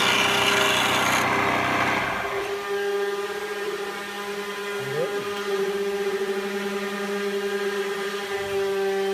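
Homemade wood lathe's electric motor running, with a tool scraping the spinning wood for the first two seconds. After that the lathe spins freely with a steady hum.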